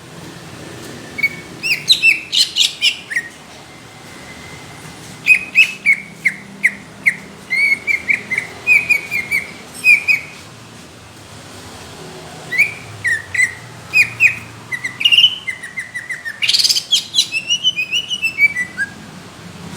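Green leafbird (cucak ijo) singing in four bursts of rapid, sharp chirping notes with short pauses between them; the last phrase ends in a quick falling run of notes.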